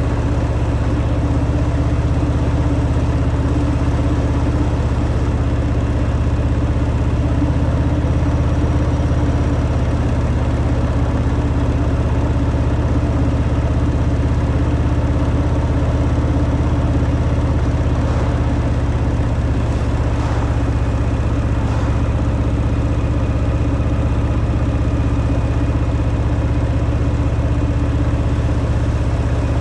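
Harley-Davidson Fat Boy's V-twin engine running steadily through its stock exhaust.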